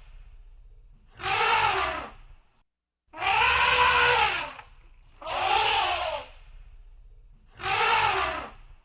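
Elephant trumpeting: four calls of about a second each, roughly two seconds apart, each rising and then falling in pitch, over a low rumble.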